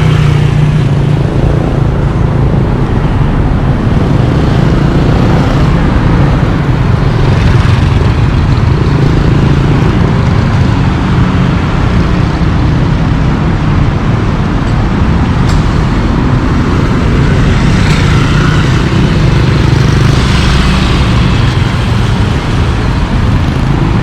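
Steady road traffic, with vehicle engines running and a continuous low rumble.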